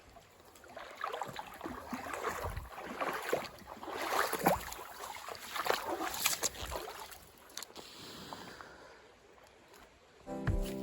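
Irregular water sloshing and splashing in a shallow river, busiest in the middle and fading out after about seven seconds. Guitar music comes in near the end.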